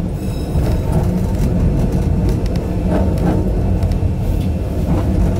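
Yokkaichi Asunarou Railway 260 series narrow-gauge electric train running along the line, heard from inside the driver's cab: a steady low rumble of wheels on rail and running gear, with a few light clicks.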